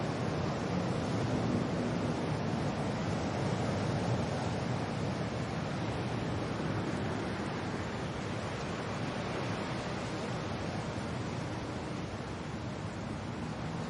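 Steady rain with wind: an even rushing hiss that swells and eases slightly.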